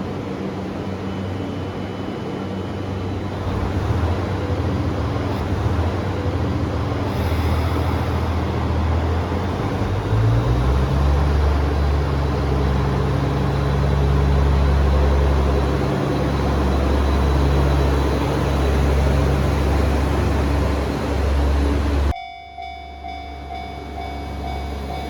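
Diesel engine sound of an HC85 hybrid limited express departing on an N-gauge layout, with rolling noise. The engine note rises and strengthens about ten seconds in as it pulls away, and the sound cuts off abruptly near the end.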